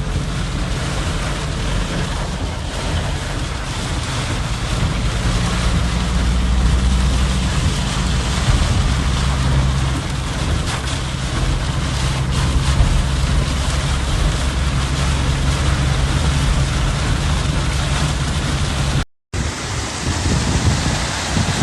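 Heavy rain and gusting wind, with wind rumbling on the microphone. It breaks off briefly near the end, then goes on.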